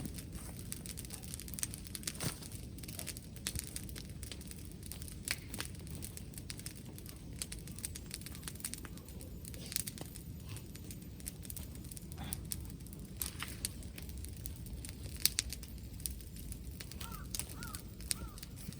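Wood fire crackling with irregular sharp pops and snaps, over a steady low rumble of wind on the microphone.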